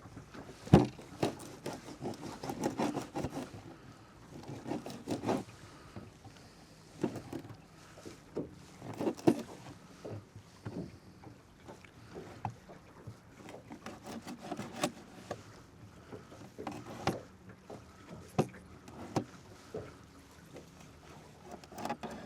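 Irregular knocks, clunks and rubbing of gear being handled in a small fishing boat, with a few sharp loud knocks.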